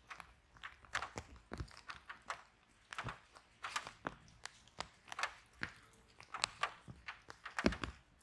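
Wood fire crackling in a fireplace: irregular sharp snaps and pops several times a second, a few of them heavier with a low thud, the loudest near the end.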